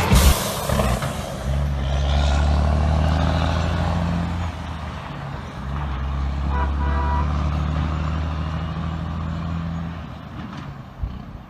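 Straight-piped diesel engine of a 1980s Western Star 4964 truck running with a steady low drone that drops out briefly about halfway and returns, then fades near the end.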